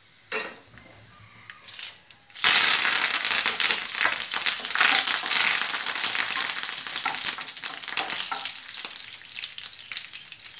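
Fresh curry leaves hitting hot coconut oil with mustard seeds and dried red chillies: a sudden loud sizzle and spluttering about two and a half seconds in, slowly dying down as the leaves are stirred in the pan.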